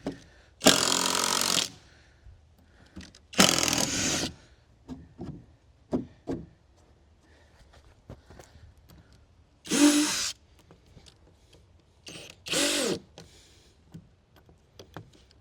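Power drill backing screws out of deck boards in four short runs of about a second each, the motor spinning up and winding down each time, with small knocks and clicks between runs.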